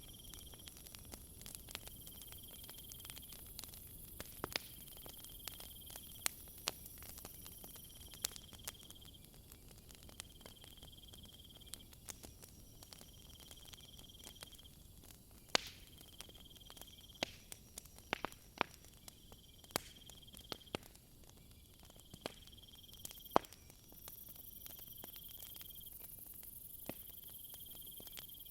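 Wood fire crackling with sharp, irregular pops, over a night chorus of insects. The insects give a steady high buzz and a chirping call that repeats every two seconds or so. The high buzz grows louder near the end.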